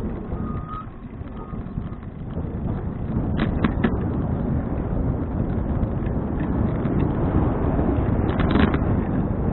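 Wind rushing over an action camera's microphone while riding a touring bicycle, with road noise that grows louder a couple of seconds in. Two short bursts of rattling clicks, the second near the end.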